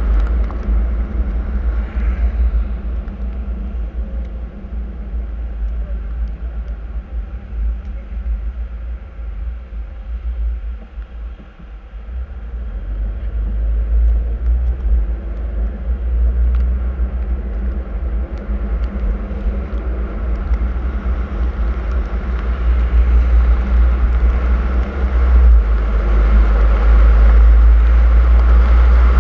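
Car driving on a snowy road: steady low road and engine rumble. It eases off briefly about halfway through, then builds again and is loudest near the end.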